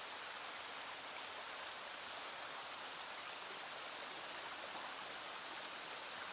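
Small stream flowing steadily, with rain falling.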